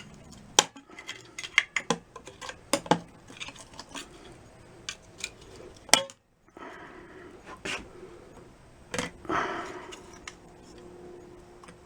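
Irregular metallic clinks and rattles from an engine being handled on the bench, with loose fragments of broken piston clanking around inside the crankcase. There is a brief break about halfway through.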